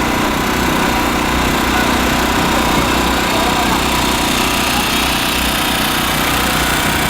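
A small engine running steadily at an even pace, with no change in speed.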